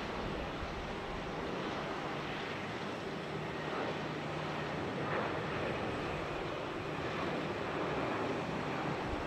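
Airliner jet engines heard as a steady rushing noise, holding level without sudden changes.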